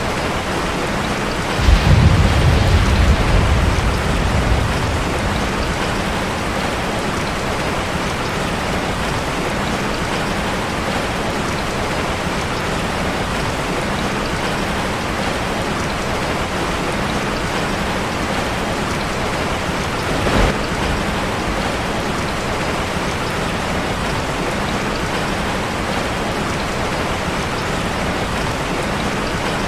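Steady heavy rain drumming on a metal roof. About two seconds in, a low rumble of thunder swells and fades over two or three seconds, and a short low thump comes about twenty seconds in.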